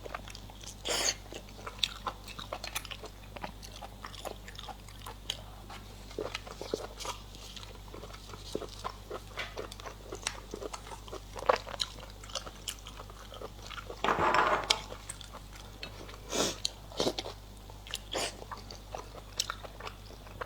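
A person chewing and biting food close to the microphone: irregular wet clicks and crunches. About two-thirds of the way in there is a louder drawn-out noise lasting about a second.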